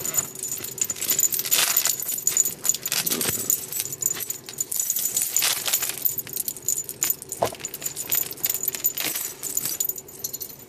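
Metal chain strap and hardware of a handbag jangling and clinking as it is handled, in dense, irregular rattles.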